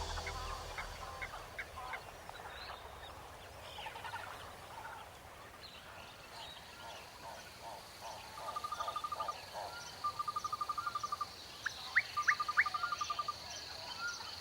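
Animal ambience: scattered short chirping calls, then three rapid pulsed trills about a second long each, with a few quick upward chirps near the end, over a steady faint high-pitched whine.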